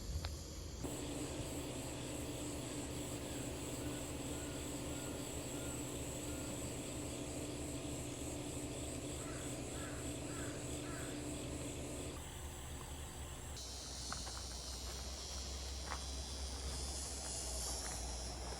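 Cicadas droning in the trees, the buzz thickening and growing stronger in the last few seconds, with a few short bird calls. A steady low hum underneath stops about twelve seconds in.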